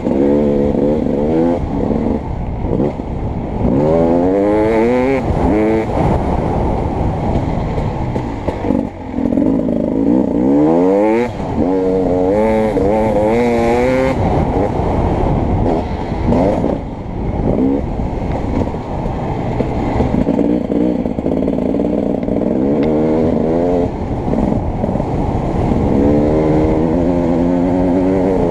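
Beta 300RX two-stroke dirt bike engine revving hard and falling back over and over: the pitch climbs in repeated sweeps as it accelerates through the gears, then drops off the throttle between them.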